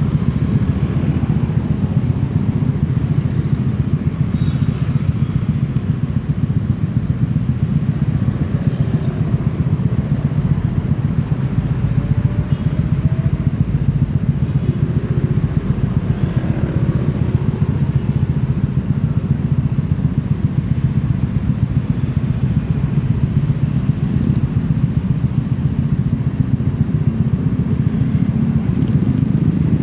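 Motorcycle engine running steadily on the move, with road and wind noise from city traffic.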